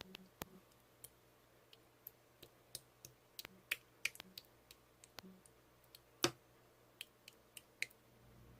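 Slime being squished and poked by hand, giving irregular small clicks and pops, a few a second, with one louder pop about six seconds in.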